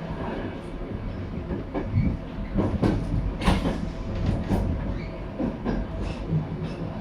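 Intercity passenger train rolling out of the station, its wheels clattering with irregular sharp knocks over rail joints and points above a steady low rumble, heard from inside the carriage.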